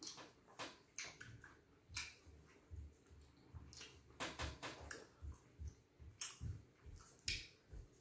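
Faint, irregular chewing and mouth clicks of people eating fufu, stew and fried fish, with many short clicks and soft low thuds.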